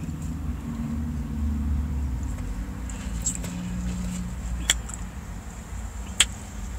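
Car engine idling, a steady low hum inside the cabin, with two sharp clicks in the second half, the later one the loudest.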